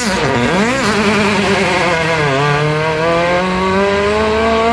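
Rally car engine revving hard under acceleration, its pitch climbing and dropping sharply at quick gear changes, then climbing steadily in one long pull.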